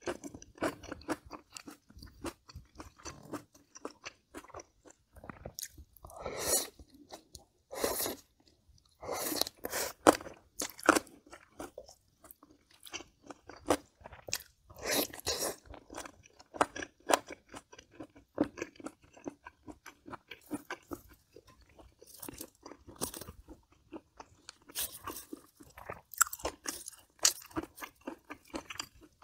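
Close-miked eating sounds: chewing and crunching crisp, lightly braised kimchi and pork rib. There are clusters of loud crunching with softer chewing in between.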